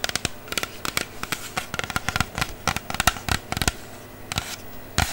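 Handling and opening a packaged container of new tennis balls: a quick, irregular run of crisp clicks and scratches, which thins out after about three and a half seconds, then one sharp click near the end.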